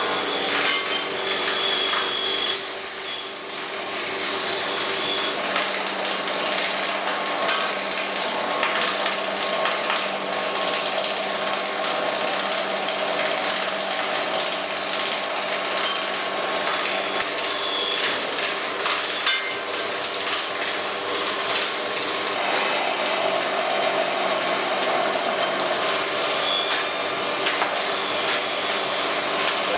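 KB-3 "Profi" log-rounding machine running, its cutter heads milling a log, with a loud, steady machining noise and steady motor tones. Many small knocks run through it, and it eases briefly about three seconds in.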